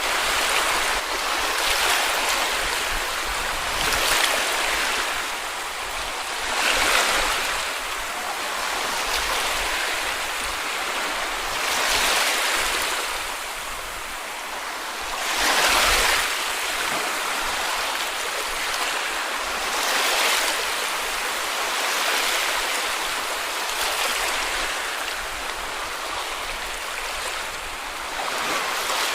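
Small sea waves washing onto a beach, a steady hiss of surf swelling every few seconds as each wave breaks, one larger wave about halfway through.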